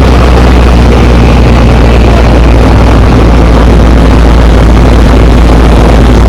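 Car running: a loud, steady low engine drone with road noise, heard from inside the vehicle.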